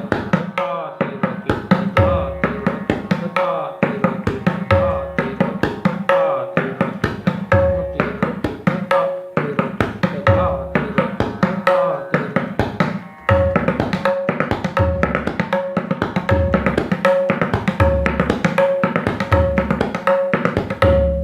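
Tabla played in a steady repeating cycle of the bols dha tirekita and ta tirekita. Each cycle has a ringing treble-drum stroke and a deep bass-drum (bayan) stroke, followed by fast clipped tirekita strokes, about one cycle every second and a bit.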